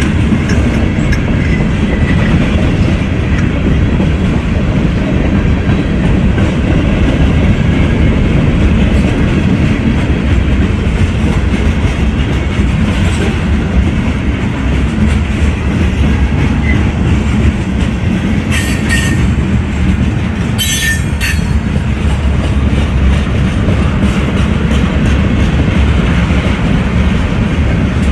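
Train rolling past, a loud steady rumble of wheels on the rails with clickety-clack. Two short high-pitched wheel squeals come about two-thirds of the way through.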